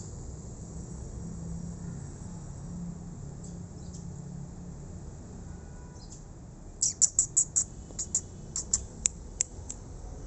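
A bird chirping: a quick run of about a dozen short, sharp, high chirps over about three seconds, starting near seven seconds in, above a low steady hum.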